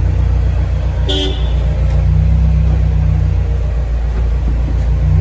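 A car's steady low engine rumble, with one short horn toot about a second in.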